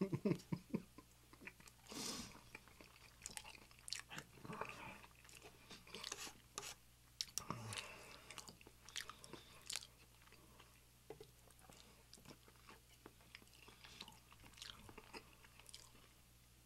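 Close-miked chewing and biting of breakfast food: scattered wet mouth clicks and soft crunches, busiest near the start.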